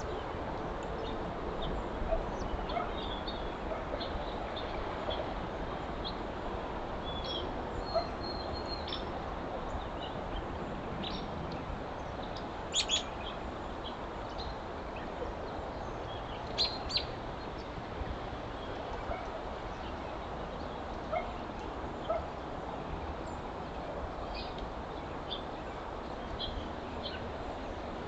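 Steady hiss of a trail camera's microphone in winter woods, with scattered short, high chirps of small birds. Two pairs of louder, sharper calls stand out near the middle.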